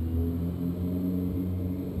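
BMW S14B23 2.3-litre four-cylinder engine of an E30 M3 Cecotto, with carbon airbox and tubular exhaust manifold, running at a fairly steady speed.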